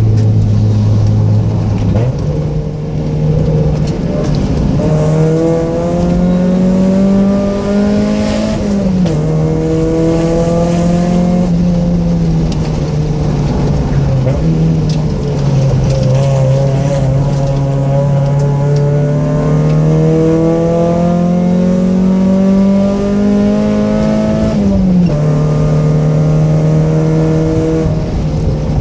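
Mazda Miata 1.6-litre four-cylinder engine with aftermarket headers and exhaust, driven hard: the note climbs with the revs and drops sharply at the gear changes, twice.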